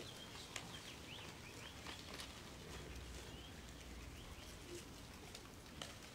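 Faint bird chirps: a run of short, quick gliding notes, with a few soft clicks.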